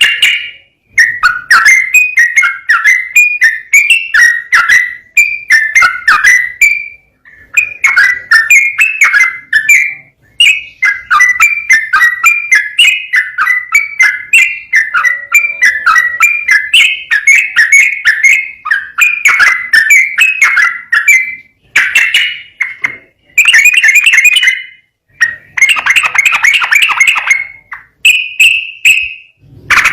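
Yellow-vented bulbul (trucukan) singing a fast, continuous run of chattering, warbled phrases, broken by a few short pauses.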